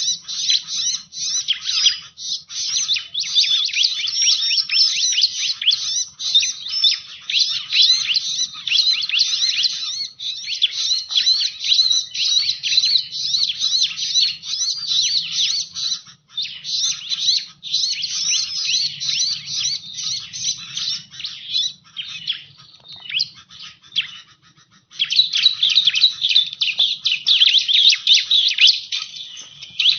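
Bar-winged prinia (ciblek) lure call: a fast, unbroken run of high chirps and trills. It thins and drops out for a couple of seconds about three-quarters of the way through, then starts again.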